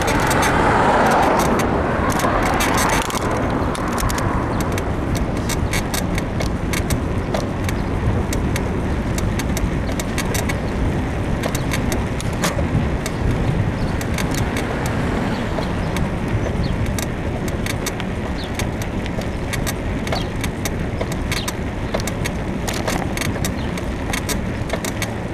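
Bicycle frame creaking and clicking over and over while being ridden, over a steady low rumble of wind and road noise; the rider puts the creak down to a worn suspension bushing in the frame. A car passes in the first few seconds.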